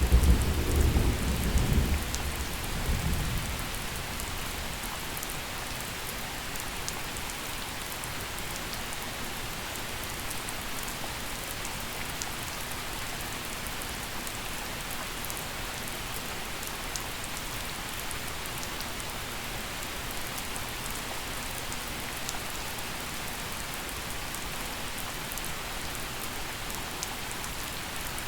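Steady gentle rain falling, with scattered drop ticks, and a low rumble of thunder in the first few seconds that dies away.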